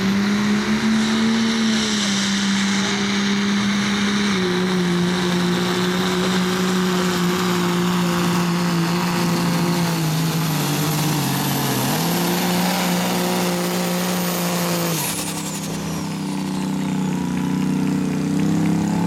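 Diesel pulling truck's engine held at high, steady revs under load, sagging briefly about two-thirds through. Near the end the throttle is let off: the engine note drops and a high turbo whistle winds down as the engine settles to a lower run.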